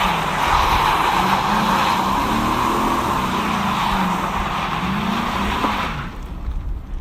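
Chevy Silverado's 4.8-litre Vortec V8 revving hard, its rear tires squealing on pavement while they spin. The tire screech and engine fall away about six seconds in.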